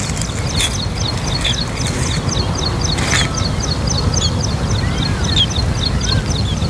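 Birds calling in a fast run of short high chirps, about five or six a second, with a few lower, sweeping notes in the second half, over a steady low rumble and a few brief rustles.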